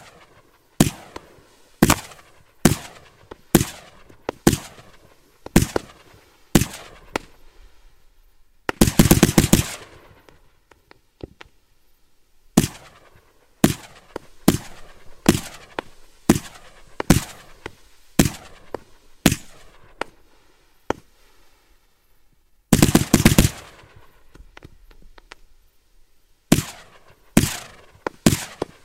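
Kimbolton Dancing Fireflies 62-shot firework barrage firing: a sharp bang roughly every second, broken by two quick salvos of many rapid bangs, about a third of the way in and again about four fifths of the way in.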